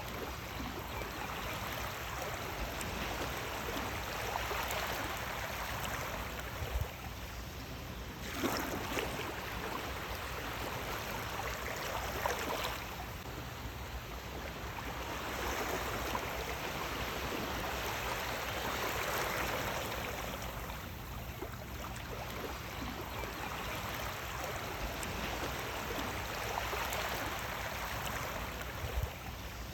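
Sea waves washing in: a continuous rush of water that surges and recedes every few seconds.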